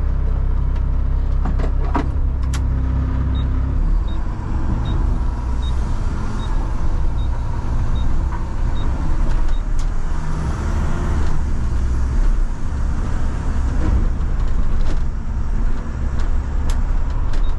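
Front-load garbage truck's diesel engine running, heard from inside the cab while driving, its pitch shifting about four seconds in. A light tick repeats a little faster than once a second for several seconds, with a few sharp knocks near the start.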